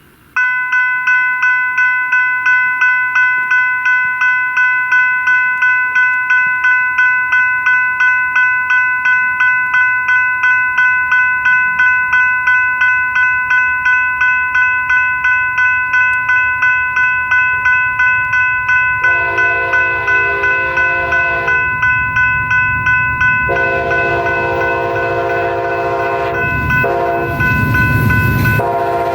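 Railroad crossing's General Signals type 3 electronic bell starts ringing about half a second in, a steady ding about two and a half times a second. Later the horn of an Amtrak GE P42DC locomotive sounds a short blast, then a long one as the train reaches the crossing, with the heavy rumble of the locomotives passing near the end.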